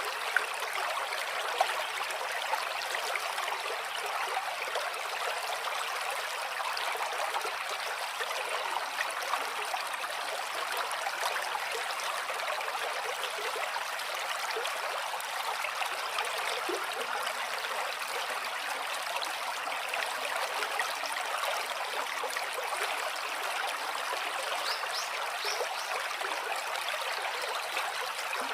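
Shallow stream flowing steadily, a continuous burble of running water with small trickling splashes.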